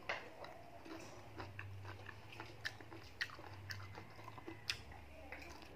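A person chewing and eating spicy noodles close to the microphone: scattered faint wet mouth clicks and smacks, over a low steady hum.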